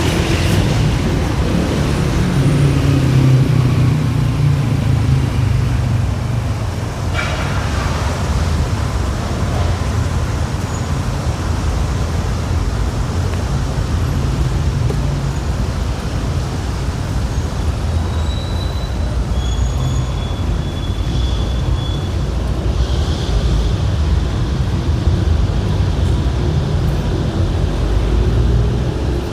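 City street traffic: a steady rumble of passing vehicles, louder in the first few seconds as a heavy engine goes by. There is a sharp knock about seven seconds in, and a few short high chirps near the middle.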